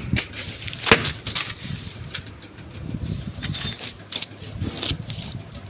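Motorcycle engine gaskets being handled and sorted through: rustling and light clattering, with a sharp knock about a second in and a brief high chirp about midway.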